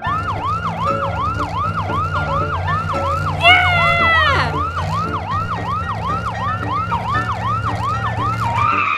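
Ambulance siren sound effect: a fast wailing siren, about three rising-and-falling sweeps a second, over a steady low engine drone. About three and a half seconds in, a louder falling whistle slides down over it.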